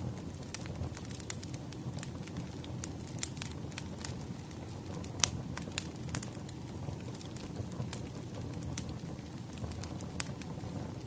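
Wood fire crackling: a steady low rumble of flames with frequent sharp pops and snaps, the loudest about five seconds in.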